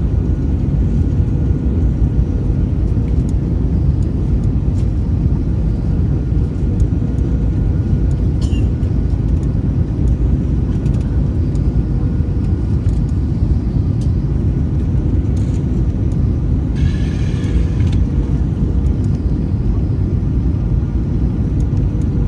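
Airbus A320 cabin noise during descent: a loud, steady low rumble of the engines and airflow over the fuselage, with a faint steady hum running through it. A brief hiss lasting about a second comes about three-quarters of the way through.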